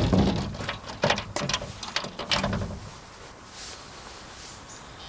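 A door being shut and its locks and bolts fastened: a quick run of clicks and knocks over the first three seconds or so, then quiet.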